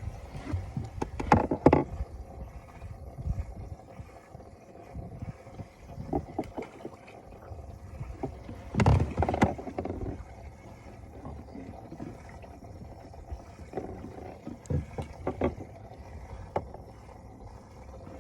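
Scattered knocks and handling bumps in a small fishing boat, the loudest cluster about halfway through, over a low rumble.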